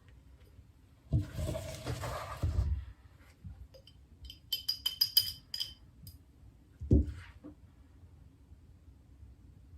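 Handling noise for a couple of seconds, then a quick run of about eight light, ringing clinks of a small hard object, and a single knock a little later.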